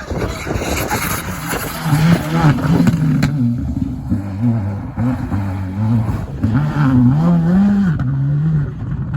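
Rally car at speed on a stage. It arrives with a sudden loud rush of noise, then its engine revs climb and drop several times over.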